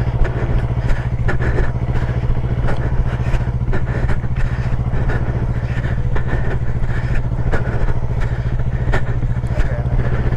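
Yamaha R3's parallel-twin engine running at low, steady revs as the bike creeps along under clutch control, with frequent light clicks and knocks over it.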